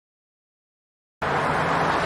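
Dead silence, then about a second in steady highway traffic noise cuts in abruptly, picked up by the body-worn camera's microphone.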